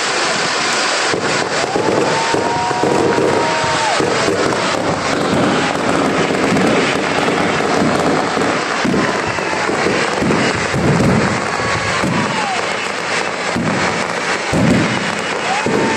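Fireworks display: a dense, continuous crackle of popping bursts, with several whistling tones that rise, hold for a second or two, and fall away.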